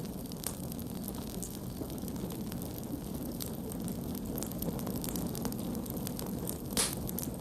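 Wood campfire crackling: scattered sharp pops and snaps over a steady low rush of burning, with one louder pop near the end.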